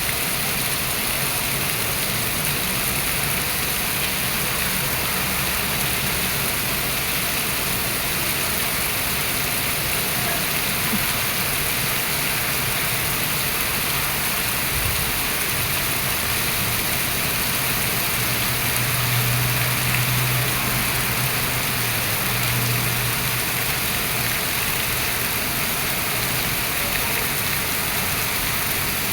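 Rain falling steadily in an even, unbroken hiss. A low hum runs underneath and swells for a few seconds about two-thirds of the way through.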